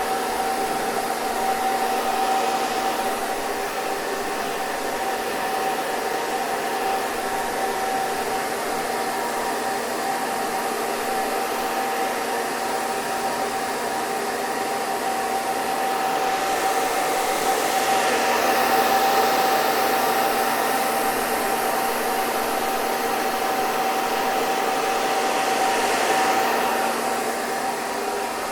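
Electric hair dryer running continuously: a steady rush of air with a motor whine, brightening slightly about two-thirds of the way through.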